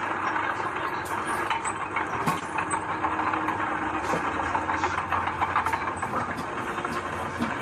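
Heavy diesel earthmoving machinery running steadily, with metallic rattling and frequent short clanks over the engine.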